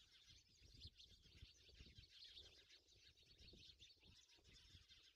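Near silence: faint room tone with distant birds chirping.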